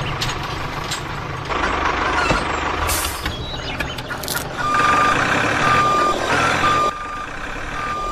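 A vehicle's engine running with a low rumble, with two short hisses around the middle. About halfway through, a reversing alarm starts beeping, one steady tone about once a second.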